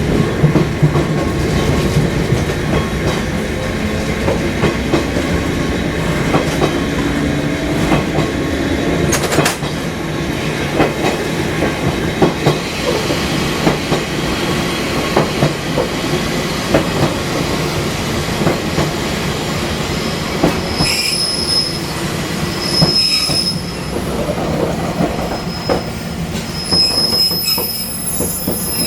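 Fukui Railway 200 series electric train running, its wheels clicking over rail joints. Later on, high-pitched wheel squeal comes and goes several times.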